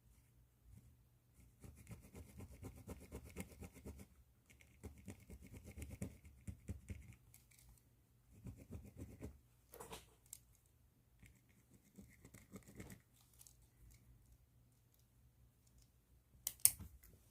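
Pen tip scratching across paper in several runs of quick back-and-forth strokes, faint and close, with a sharp click about ten seconds in and a louder sharp click near the end.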